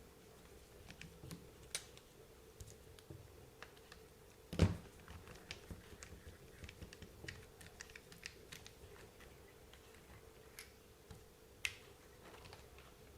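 Scattered light clicks and taps of a small screwdriver and parts being handled as an RC buggy's rear suspension is taken apart, with one louder knock about four and a half seconds in.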